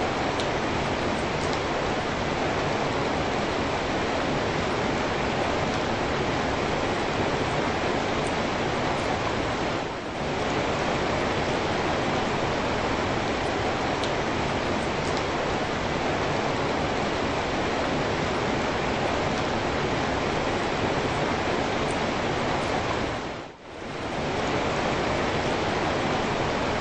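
Steady rain falling, an even hiss of many drops with no single sound standing out. The level dips briefly twice, slightly about ten seconds in and more deeply near the end.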